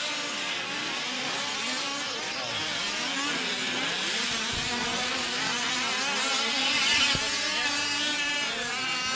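Several 1/5-scale gas RC off-road trucks' small two-stroke engines buzzing and revving on the track, their overlapping high whines rising and falling as they speed up and slow down.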